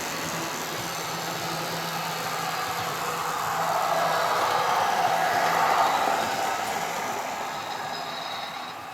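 Model train running on the layout's track: a steady motor hum and wheel noise that grows louder as it comes near, peaking about halfway through, then fades away as it moves off.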